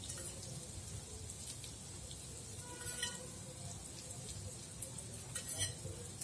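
Koftas sizzling faintly in oil in an appam pan. A metal spoon clinks against a steel bowl with a brief ring about three seconds in, and a few more light clicks come near the end.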